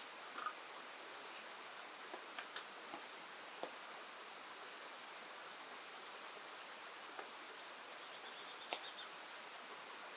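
Steady hiss of rain and flowing river water, with scattered sharp ticks through it. About eight seconds in comes a brief, high, rapid run of repeated notes.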